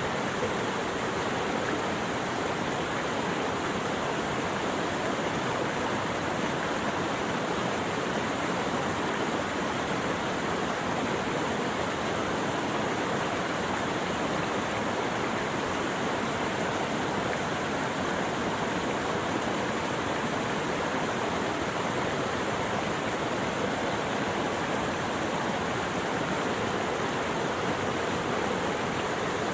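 Flowing water rushing steadily, an even wash of sound with no breaks, surges or other events.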